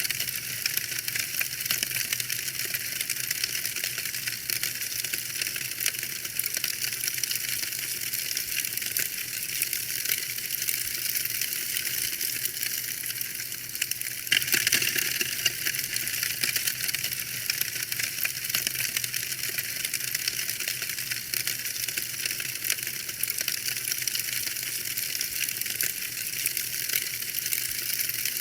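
Fire burning in a fireplace, crackling with a steady, dense patter of small pops and a louder flurry of crackles about halfway through.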